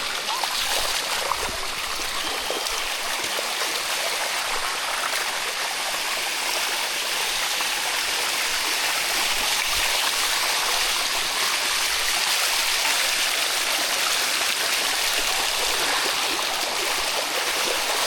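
Water running steadily over the limestone cascades of the Bua Tong sticky waterfall, an even rushing.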